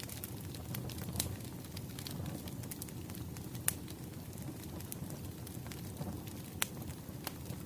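Wood fire burning: a steady low rumble with frequent sharp crackles and pops, a few louder snaps scattered through.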